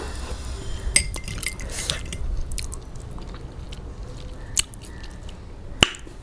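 Close-miked chewing and biting of food, with a few sharp clicks scattered through it, the loudest near the end.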